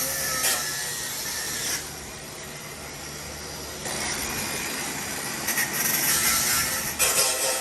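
Tool noise from working a car's stock exhaust loose: uneven scraping and rubbing of metal, louder at the start and again from about four seconds in, over a steady low hum that stops around the middle.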